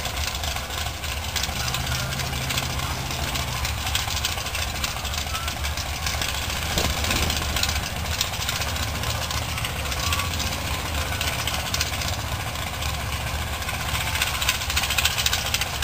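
Drag race car's engine idling at the starting line, a steady low rumble under a broad hiss, with no revving.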